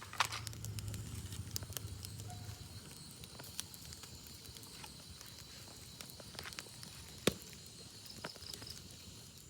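Open fire crackling, with a few sharp pops over a faint steady high-pitched tone and a low rumble in the first couple of seconds.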